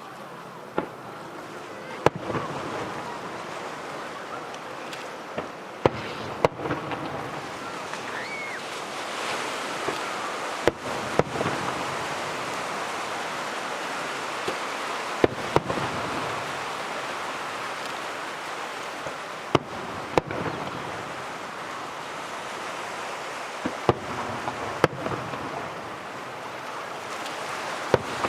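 Aerial fireworks shells bursting in an irregular series of about a dozen sharp bangs over a steady rushing background noise, with a brief rising whistle about eight seconds in.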